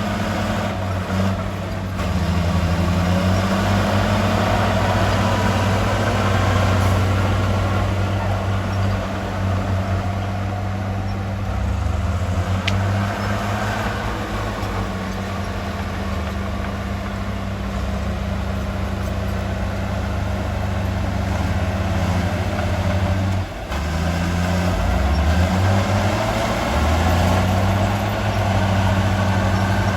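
Heavy diesel earthmoving machinery running under varying load, its engine note rising and falling in pitch, with a brief drop in level late on.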